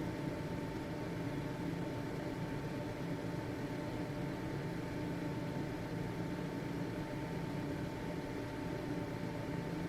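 Household ventilation fan running steadily: an even rush of air over a low motor hum, with a faint steady whine on top.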